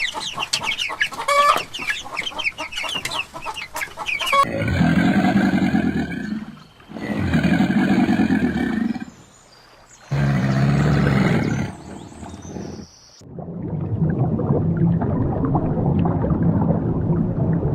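Chickens clucking in a quick, busy chatter for about four seconds, followed by three long, lower calls from another animal with short gaps between them, then a steady low pulsing sound.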